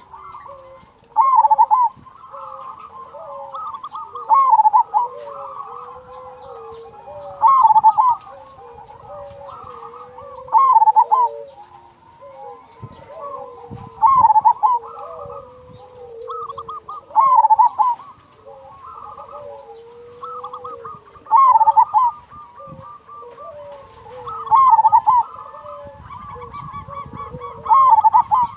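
Zebra doves (perkutut) cooing. A loud, rolling coo phrase repeats about every three seconds, nine times, over quieter overlapping coos from other doves.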